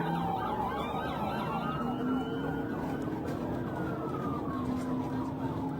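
Several police sirens wailing at once, their overlapping tones rising and falling, over the steady road noise of a vehicle in the pursuit.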